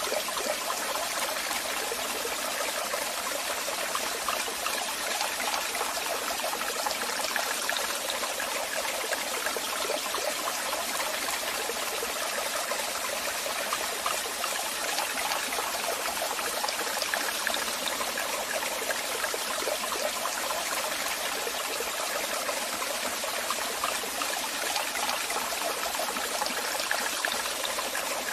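Waterfall: water falling and splashing in a steady, unbroken rush, with the sound sitting mostly in the middle and upper range and little low rumble.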